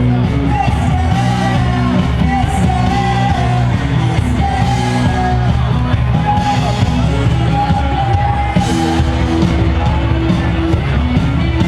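Live rock band playing with a singer's voice carrying the melody.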